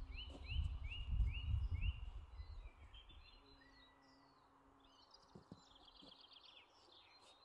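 Wild birds singing: one bird repeats the same short note five times at an even pace in the first two seconds, then other chirps follow and a rapid trill comes about two-thirds of the way in. A low rumble sits under the first two seconds.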